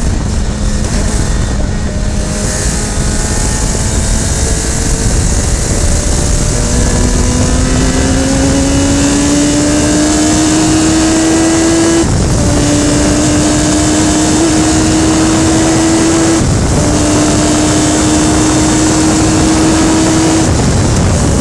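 Radical SR3 race car engine accelerating hard: its pitch climbs, drops briefly twice as it shifts up about 12 and 16 seconds in, then the tone fades near the end. Heavy wind and road noise run under it throughout, as heard onboard.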